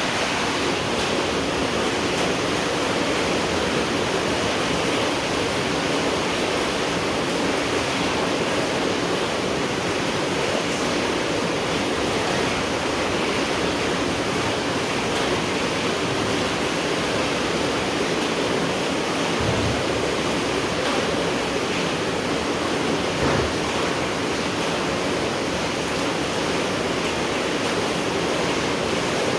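Steady rain falling, an even hiss with no letup. Two short low bumps come a few seconds apart, about two-thirds of the way through.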